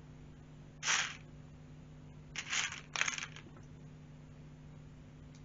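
Small plastic LEGO pieces rattling briefly as they are handled, three short times: once about a second in and twice in quick succession around two and a half to three seconds in, over a faint steady low hum.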